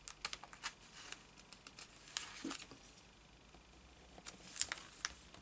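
Paper rustling with scattered light clicks and taps as small punched paper circles are handled, with one sharper crinkle a little before the end.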